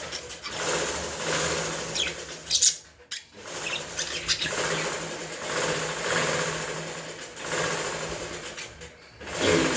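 Lovebirds fluttering and chirping: a dense rustling flutter with a few short, sharp chirps. The flutter breaks off briefly about three seconds in and again near the end.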